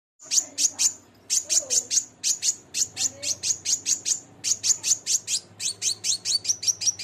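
Scarlet minivet (sepah raja) calling in rapid 'cret cret' chirps: short, sharp, high notes repeated about five a second in runs, broken by brief pauses.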